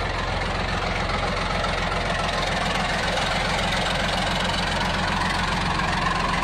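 A heavy engine running steadily at a constant speed, with a deep even hum.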